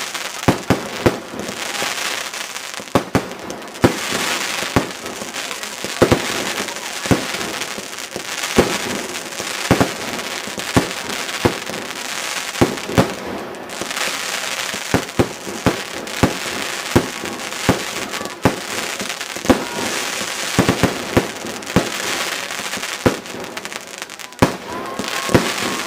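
Fireworks display: a long, irregular run of sharp bangs, often several a second, over a continuous crackle and hiss of bursting shells.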